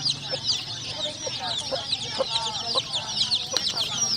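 A group of chicks peeping nonstop: many high, downward-sliding peeps overlapping one another, with a few lower, shorter calls underneath.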